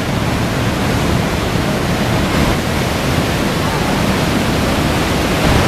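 Niagara's Horseshoe Falls heard up close: a loud, steady rush of falling water.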